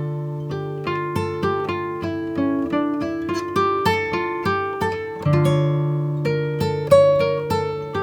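Background music: acoustic guitar picked note by note, about three notes a second, each ringing and fading, with a deep bass note at the start and again about five seconds in.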